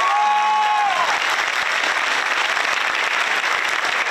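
Audience applauding steadily, with a held high-pitched call from someone in the crowd during the first second.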